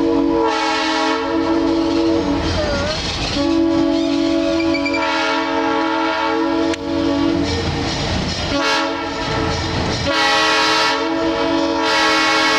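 Locomotive whistle blowing the grade-crossing signal in separate blasts with short gaps: long, long, a shorter one, then a final long blast. The train's rumble and clatter on the rails run underneath.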